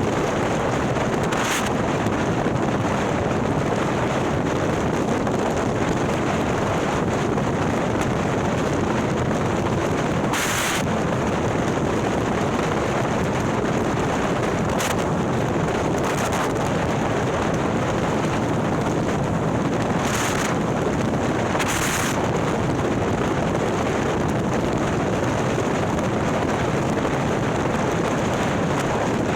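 Harley-Davidson Milwaukee-Eight V-twin, bored to 130ci and fitted with a ThunderHeader exhaust, running steadily at riding speed with heavy wind on the microphone. A handful of brief hissing bursts break in now and then.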